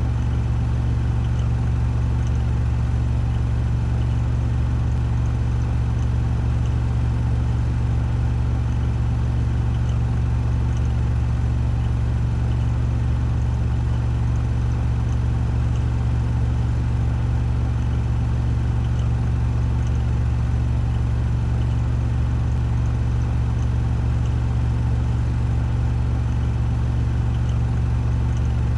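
Washing machine on a 1400 rpm spin cycle: the drum spins at a constant speed with a steady, even low hum.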